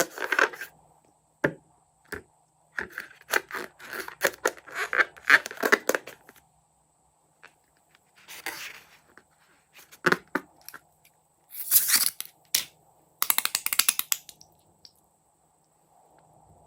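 Crackling, tearing handling sounds of balloons and slime being worked by hand, in several short bursts with pauses between, and a quick run of clicks near the end.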